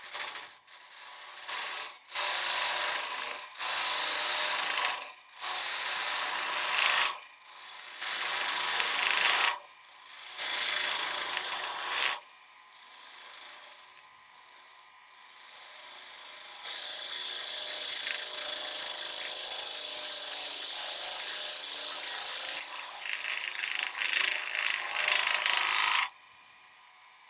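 Turning tool cutting spinning wood on a lathe: a series of short passes lasting a second or two each, then after a quieter stretch one longer steady pass of about ten seconds that ends abruptly.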